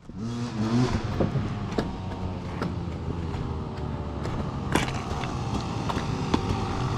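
Dirt bike engine running, with a short rise in pitch in the first second, and sharp clicks and knocks now and then, the loudest about five seconds in.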